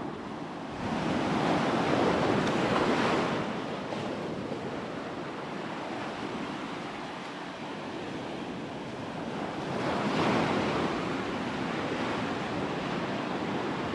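Ocean surf breaking on a sandy beach, a steady wash that swells with a louder wave about a second in and another around ten seconds in. Wind buffets the microphone.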